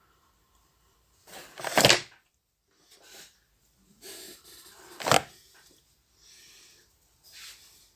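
Two loud knocks about three seconds apart, the first with a short build-up of scraping before it, and quieter rustling and scraping sounds between and after.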